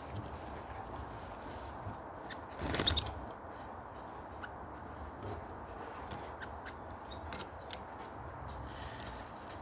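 Light clicks and scratching in a canary cage, with one short, louder scrape or rustle about three seconds in.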